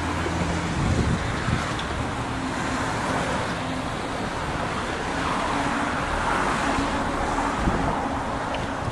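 Steady outdoor noise of road traffic with wind buffeting the microphone.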